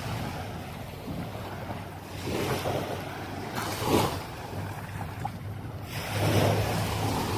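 Waves washing onto the beach in surges, with wind on the microphone, and a low engine hum that comes in near the end.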